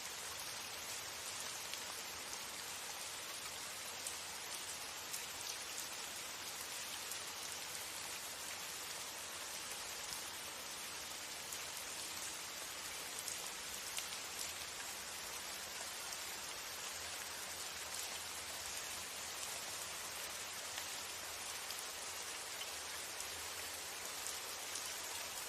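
Steady rain falling on a window, an even patter with occasional sharper drop ticks.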